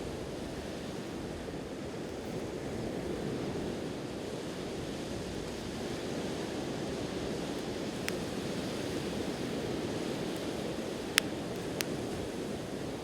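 Steady wash of ocean waves, with a campfire's burning wood giving a few sharp crackling pops, the loudest about eleven seconds in.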